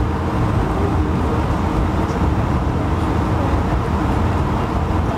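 Steady low rumble inside the cabin of an Airbus A220-100 on the ground, its Pratt & Whitney PW1500G geared turbofans running at low power.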